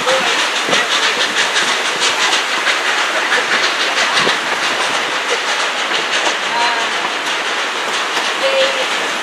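Narrow-gauge passenger train rolling along the track, its wheels clicking steadily over the rail joints, with the rush of a fast whitewater river close alongside.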